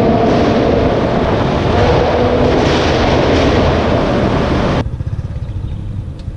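Lamborghini Huracán's V10 at full throttle through a Fi aftermarket exhaust: a loud, even roar that cuts off abruptly about five seconds in, leaving a lower, pulsing engine rumble.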